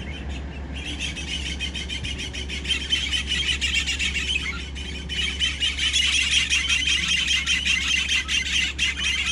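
A chorus of many birds chattering and chirping in rapid, overlapping high calls. It gets louder about a second in and again about halfway through.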